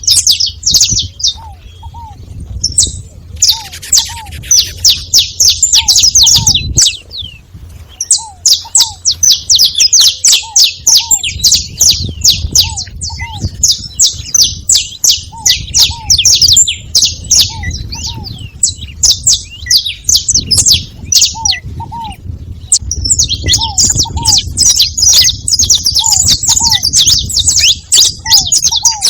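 Several saffron finches chirping and singing together in a dense, rapid stream of high chirps, broken by a few short pauses. A lower, short two-note call repeats every second or two underneath.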